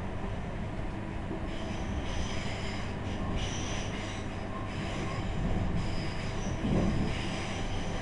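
Electric passenger train running, heard from inside the carriage: a steady rumble of wheels on rails, with high, thin wheel squeals coming and going. A louder surge of rumble comes near the end.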